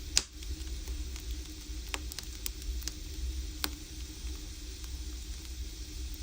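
Firewood burning in an agungi, a traditional Korean wood-fired hearth: a steady hiss and low rumble with sharp crackling pops, the loudest just after the start and a few more spread through.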